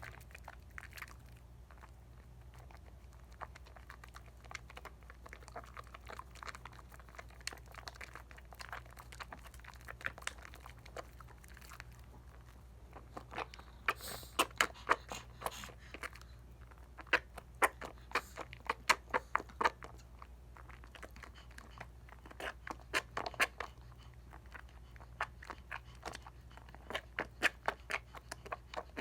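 Wet soap lather from a bar of Dial coconut soap being worked, crackling and squishing in quick clicks. The clicks grow louder and denser about halfway through.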